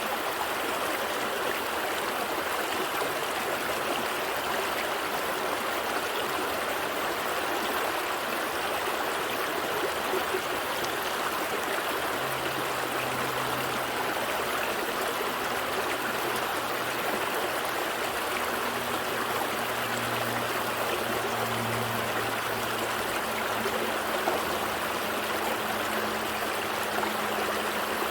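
A gentle stream flowing steadily, an even rushing babble of water, with a faint low hum joining about halfway through.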